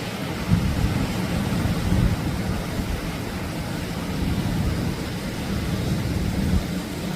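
Atlantic surf washing on the beach, a steady deep rush, with wind buffeting the microphone.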